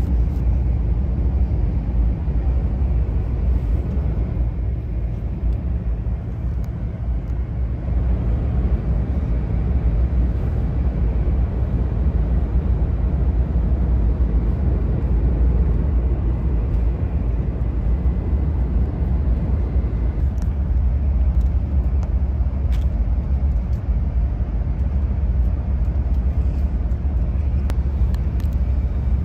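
Steady low rumble and hum inside the passenger cabin of the Hello Kitty Shinkansen, a JR West 500 series bullet train, as it runs, with a few faint clicks in the second half.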